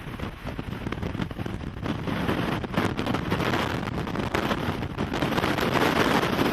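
Strong storm wind rushing and buffeting the microphone with a crackling noise, growing louder about two seconds in.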